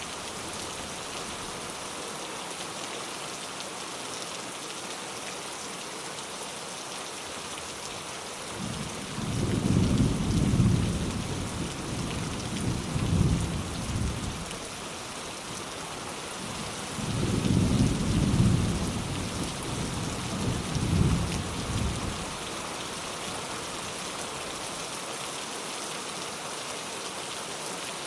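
Steady rain falling, with distant thunder rumbling twice in the middle, each low roll lasting several seconds with a couple of swells before it dies away.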